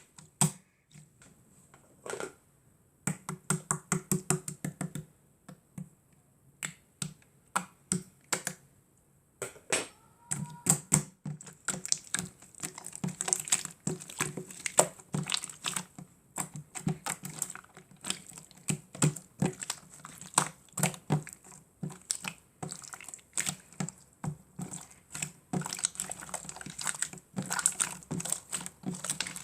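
Slime being squeezed and pressed by hand, making fast runs of small wet clicks and pops. The clicks come in short bursts with brief pauses at first, then run almost without a break from about halfway through.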